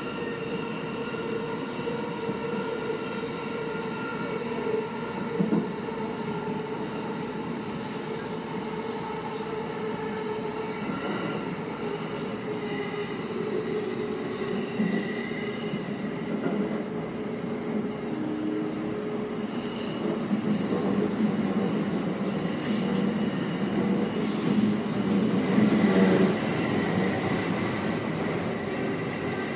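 Yokosuka Line E217 series electric train running, heard from inside the cab at the coupled end: a steady rumble with a whine over it and a few knocks from the wheels. About twenty seconds in it grows louder and hissier as the train goes into a tunnel.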